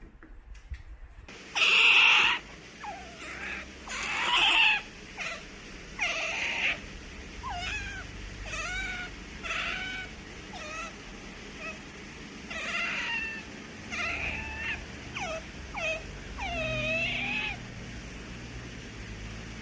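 Asian small-clawed otter chirping and squealing: a string of short, high calls about one a second, some sliding down in pitch, the first two the loudest.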